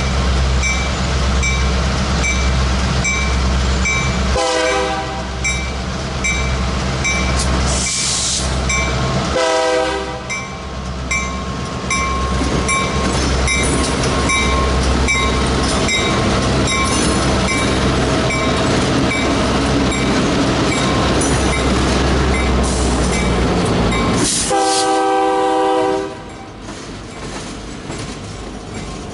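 Freight train's diesel locomotives passing close with engines running heavily. The horn sounds three times: two blasts of about a second each, then a longer one near the end, after which the engine noise falls away. A regular clicking runs underneath.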